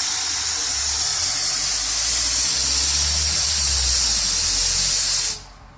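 Steam hissing loudly from a 4-inch scale Burrell traction engine, a steady rush of steam that cuts off suddenly about five seconds in.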